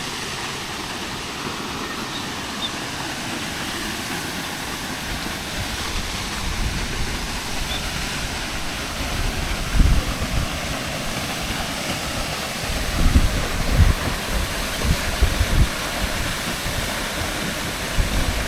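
Waterfall pouring into its pool: a steady, even rush of falling water. Low thumps on the microphone break in about ten seconds in and again several times a few seconds later.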